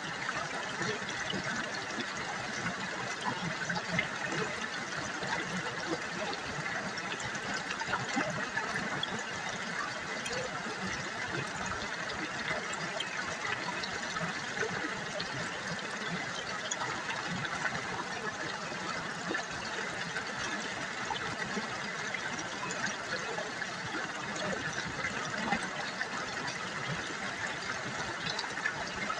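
River water babbling and trickling over stones, a steady, continuous splashing.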